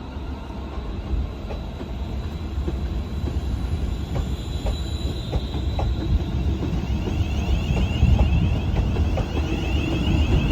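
A train running on the rails, growing louder, with scattered clicks of wheels over rail joints and a thin, high wheel squeal about halfway through.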